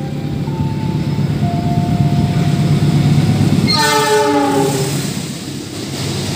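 A CC206 diesel-electric locomotive runs through the station at speed, its rumble growing as it approaches. About four seconds in it gives a short horn blast, then the coaches rush past.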